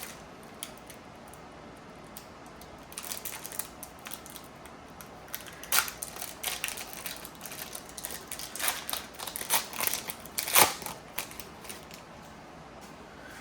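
Trading cards being handled: scattered light clicks and rustles of card stock sliding and tapping, with a sharper click about ten and a half seconds in.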